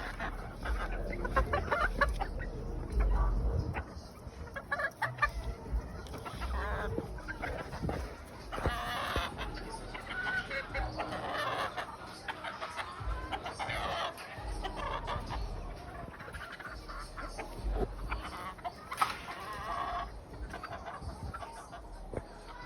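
A flock of farmed game birds clucking and calling, many short calls overlapping throughout.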